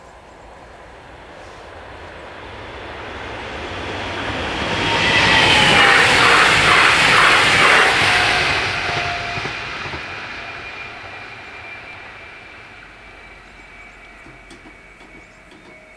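Stadler FLIRT electric multiple unit passing at speed: the rumble swells, peaks with a quick run of wheel clicks, then fades away. A whine drops in pitch as the train goes by, and a faint high steady whine lingers as it recedes.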